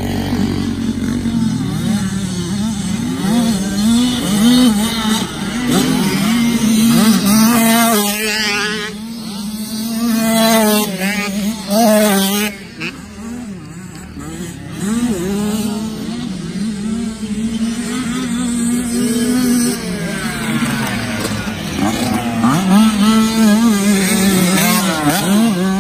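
Dirt bike engines revving hard, their pitch climbing and dropping over and over with throttle and gear changes, with more than one bike heard at once in the middle.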